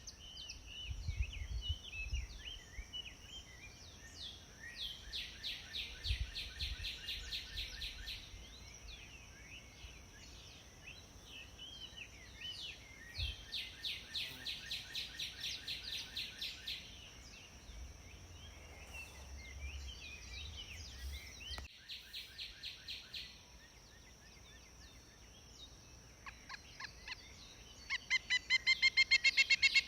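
Pileated woodpeckers calling: runs of rapid, evenly repeated high notes, several seconds each, the loudest run near the end, with scattered short bird chirps between the runs.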